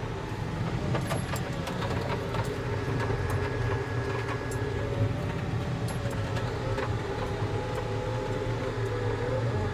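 Volvo single-arm compact track loader's diesel engine running steadily, with scattered light clicks and rattles.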